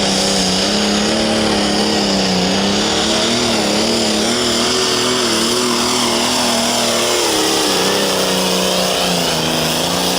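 Light Limited Super Stock pulling tractor's turbocharged engine running flat out under load on a pull, its pitch wavering up and down as it works the sled, with a steady high turbo whine over it.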